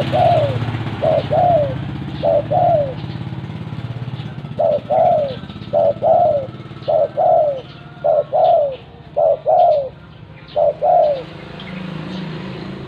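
Spotted dove (tekukur) cooing: repeated two-part calls, each a short note followed by a longer falling one. There are about nine in all, with a short pause after the third, and they stop near the end.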